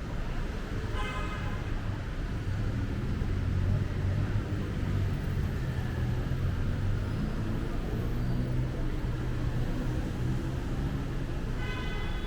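Busy city road traffic: vehicle engines running and passing, a steady low hum that swells in the middle. A short high pitched sound comes about a second in and again near the end.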